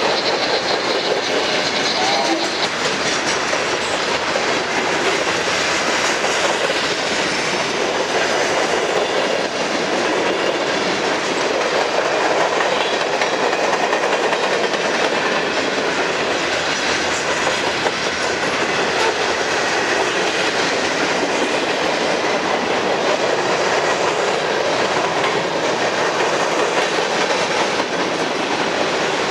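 Freight cars of a long Norfolk Southern mixed freight train (covered hoppers, open hoppers and coal gondolas) rolling past: steady, loud noise of steel wheels on rail.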